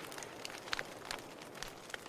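Burning firewood crackling: scattered sharp pops and snaps, about half a dozen, over a soft steady hiss.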